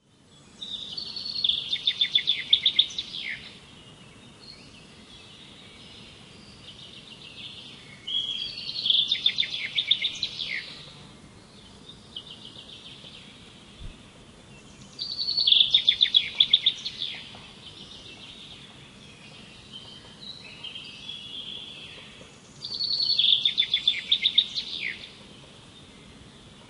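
A songbird singing: four loud, high phrases about seven seconds apart, each a couple of seconds of rapid repeated notes, with fainter chirps between them.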